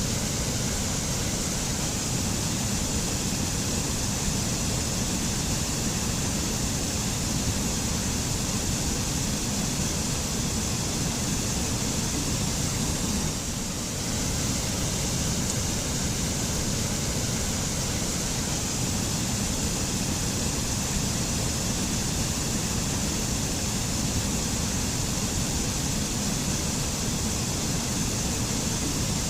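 Mountain waterfall pouring steadily, a continuous rush of falling water, with a brief dip in level about halfway through.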